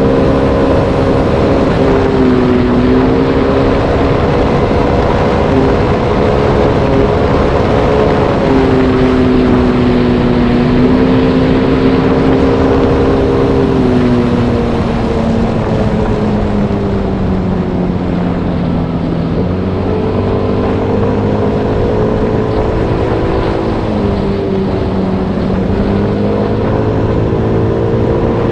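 Motorbike engine running under way, its pitch wandering with engine speed: it sinks gradually to a low point about nineteen seconds in, then climbs again. A steady rushing noise runs underneath.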